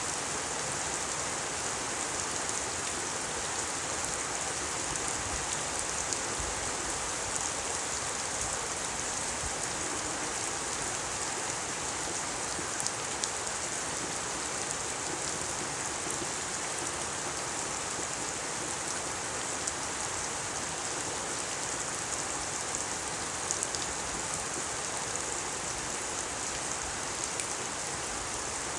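Steady rain falling, a constant hiss with scattered louder drop ticks.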